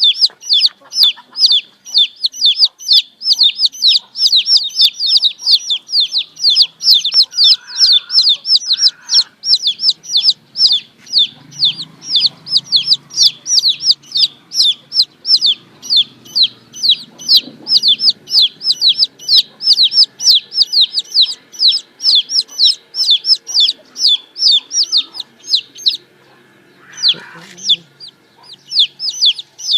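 Baby chicks peeping: a rapid, steady stream of high, short, downward-sliding peeps, about four a second. The peeps break off briefly near the end, where a lower call is heard.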